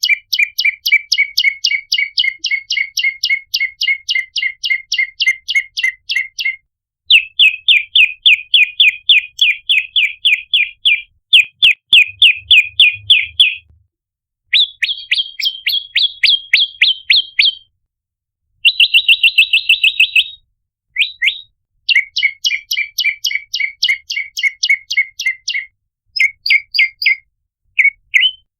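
Prenjak lumut (red-headed prenjak) calling in fast runs of sharp repeated chips, about five to seven a second, in bouts of a few seconds with short pauses between them. The pattern changes from bout to bout. It is a lure call used to draw in wild prenjak.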